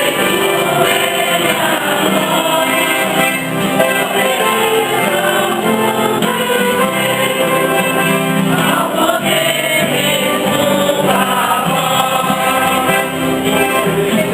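Church choir singing a hymn at Mass, several voices together in a continuous sung passage.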